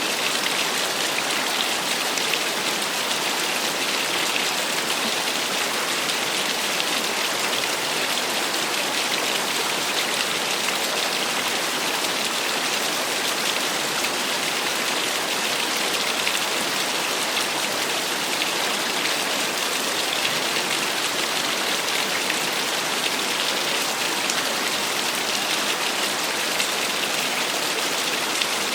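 Small waterfall splashing: a steady, even rush of falling water, bright and hissy with little low rumble.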